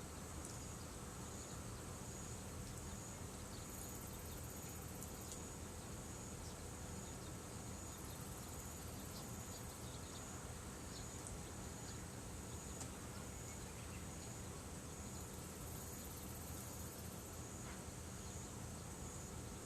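Insects chirping steadily in a fast, even, high trill, with a still higher trill joining in three times, briefly.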